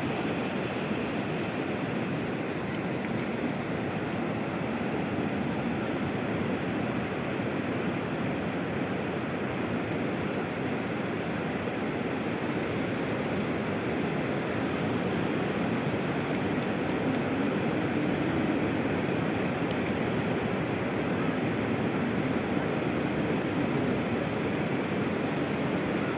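Sea surf washing onto the shore: a steady rushing noise.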